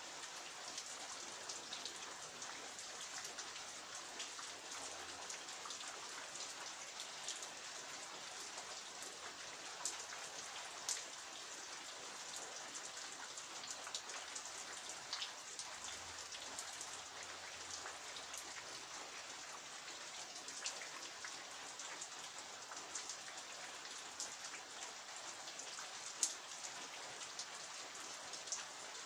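Steady rain falling, an even hiss with occasional louder individual drops ticking close by.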